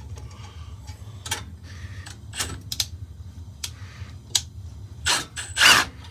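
Small metallic clicks and taps of tools and screws as the flame sensor is unscrewed from a gas furnace, over a steady low hum, with a louder rustling scrape about five seconds in.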